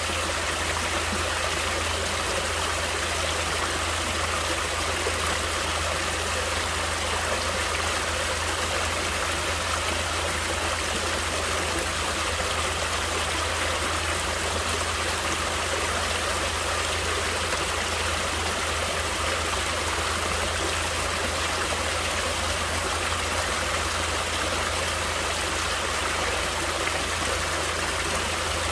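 Natural flowing water running steadily, an unbroken even rush with no pauses or changes.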